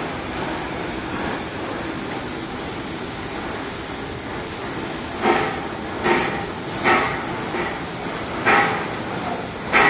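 A steady background hiss, then from about halfway five sharp metallic strikes at uneven intervals, each ringing briefly: a hammer striking the sheet-metal duct fitting.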